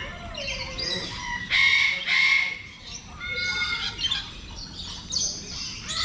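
Birds squawking: a run of harsh, repeated calls, loudest between about one and a half and two and a half seconds in.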